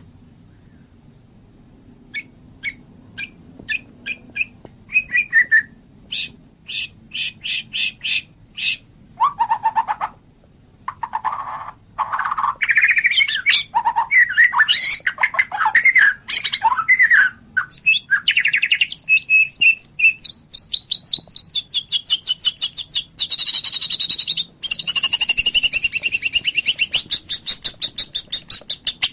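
White-rumped shama (murai batu) singing. Sparse separate short notes in the first few seconds build into loud, continuous, varied whistled song about halfway through, then long fast trills.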